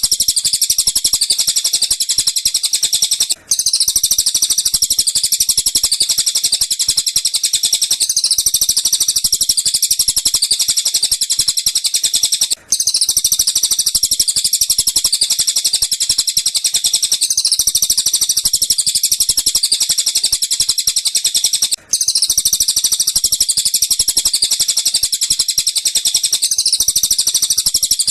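Looped recording of tengkek buto and cililin bird calls used as masteran for training a lovebird: a dense, rapid, high-pitched chatter that runs on without a break except for three brief dropouts about nine seconds apart, where the loop restarts.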